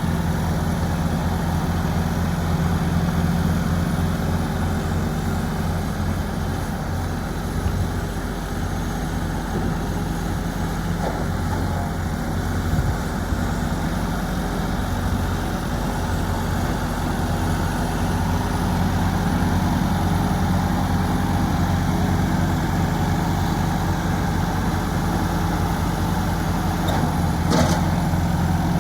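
Ford 2000 tractor's gas engine idling steadily, with one short sharp click near the end.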